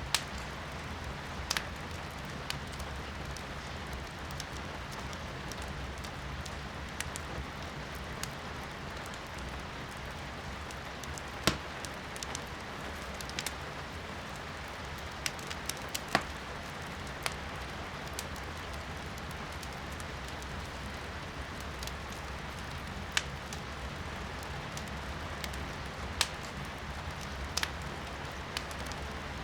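Steady rain heard from indoors, with firewood crackling in a fireplace: sharp, irregular pops over the hiss of the rain, a few of them louder than the rest.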